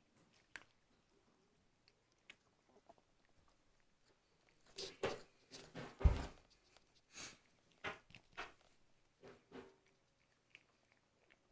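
A cat eating cat food: irregular short chewing clicks and bites, starting a few seconds in and thinning out near the end.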